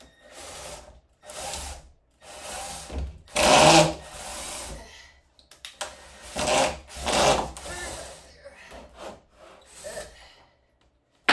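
Wood scraping and rubbing against wood in a series of uneven strokes, typical of a plywood piece being pushed and worked into a tight opening; the strongest stroke comes about four seconds in.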